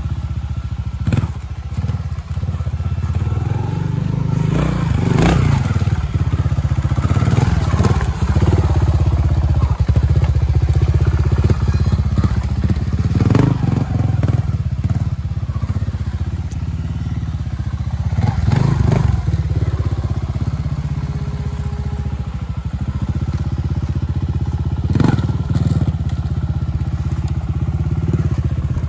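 Trials motorcycle engine running at low speed, with brief louder bursts of throttle every few seconds.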